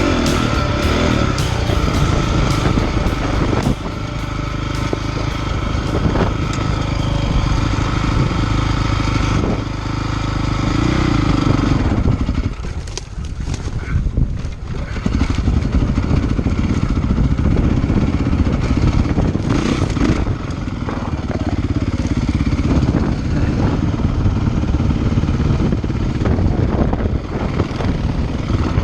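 Honda CRF450R dirt bike's single-cylinder four-stroke engine running under throttle while riding, its pitch rising and falling with the throttle. About twelve seconds in it drops off briefly, then picks up again.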